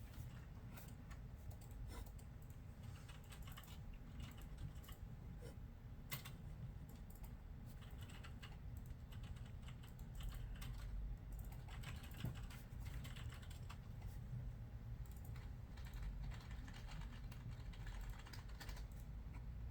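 Typing on a computer keyboard: irregular runs of keystroke clicks with short pauses, over a steady low room rumble that grows louder about halfway through.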